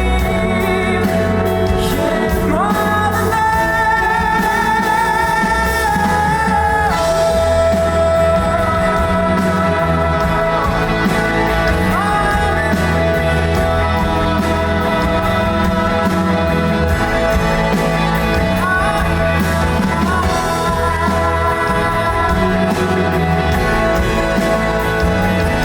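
Live rock band playing: a singer's voice with long held notes over electric guitars, bass and drums.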